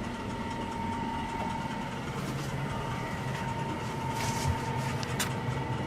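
Marine air conditioning unit running in a boat cabin: a steady hum with a constant thin whine over it, and a couple of light clicks near the end.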